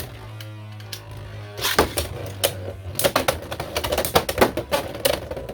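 Spinning Beyblade X tops clattering in the plastic stadium: sharp irregular clicks and knocks as they hit each other and the stadium wall.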